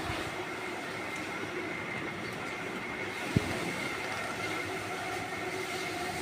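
Steady mechanical hum with several constant tones, broken by a single sharp knock a little over three seconds in.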